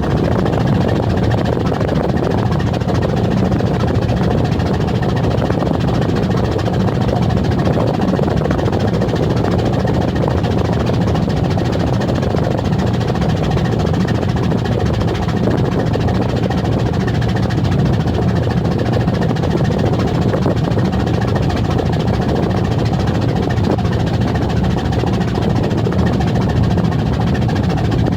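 Steady low drone of a ship's engine heard on board a vessel under way, running evenly without change.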